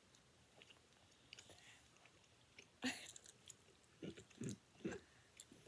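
Faint chewing of a gummy candy, an Airheads gummy, with small wet mouth clicks and one sharper click about three seconds in.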